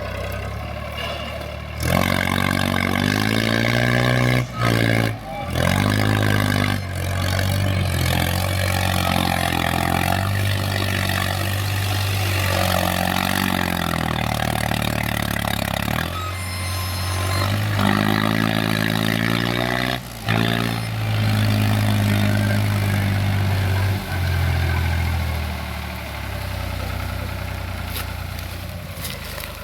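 Tractor diesel engine under heavy load pulling a sugar-cane trolley, its pitch repeatedly rising as it is revved and then dropping, with brief dips where it falls off.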